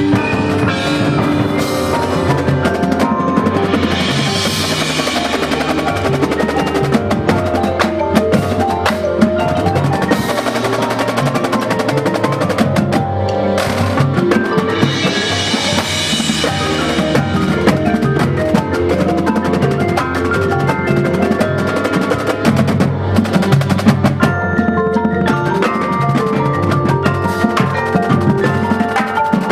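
Marching band playing, with busy percussion (snare drum rolls, wood block and bass drum) over sustained pitched chords from the winds.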